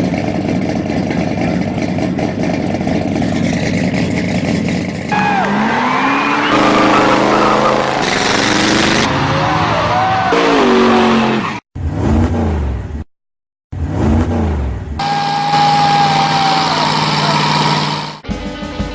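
Hot rod engines revving, the pitch climbing and falling repeatedly. The sound comes in several short clips that cut off abruptly, with a brief gap of silence about two-thirds of the way through.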